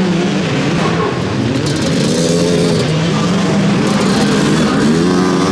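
Several motocross bikes racing together, their engines revving up and down in overlapping pitches as they accelerate and back off, with a rising rev near the end.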